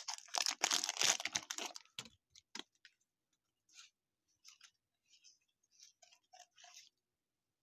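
Plastic card-pack wrapper crinkling and tearing open for about the first two seconds, then faint scattered clicks and rustles of trading cards being handled and flipped through.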